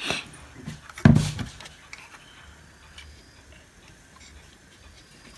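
A single heavy thump about a second in, as of an object or circuit board knocked or set down on a workbench, followed by a few faint light ticks from handling.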